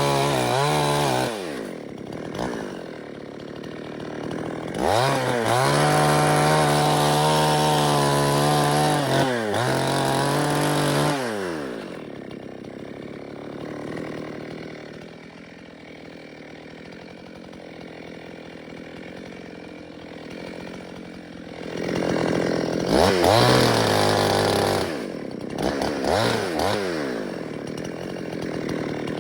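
Two-stroke chainsaw being throttled up and down: it revs up and holds high for several seconds, drops back to a lower idle for about ten seconds, then is revved again in several short surges near the end.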